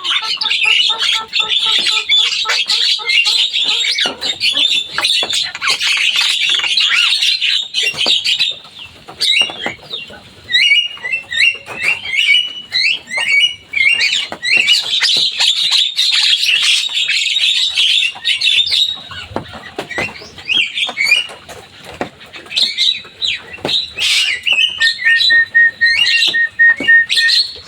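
Javan myna (jalak kebo) singing: a long, nearly unbroken run of varied harsh chattering and whistled notes, sparser in places. Near the end it gives a short train of rapid, even repeated notes.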